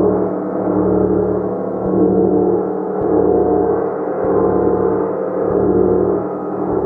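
Gong played continuously with a mallet: a dense, sustained wash of low tones that swells again with a fresh soft stroke about every second.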